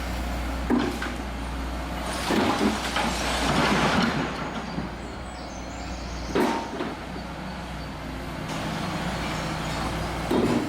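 Heavy demolition machinery running with a steady low engine drone, broken by a sharp knock, then a longer crashing, grinding noise, and two more loud knocks later on.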